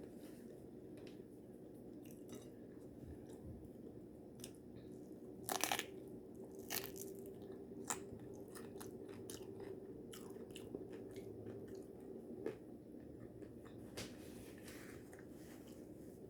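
Faint chewing and crunching of a taco being eaten, with scattered crisp crunches, the loudest about five and a half seconds in.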